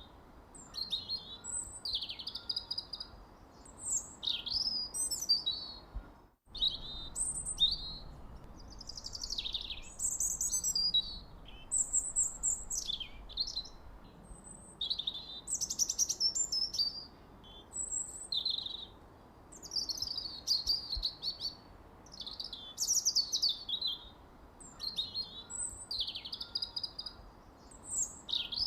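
Songbirds chirping and singing in short, high, quick phrases, many sliding downward, one after another every second or two over a faint steady hiss. The sound drops out for an instant about six seconds in.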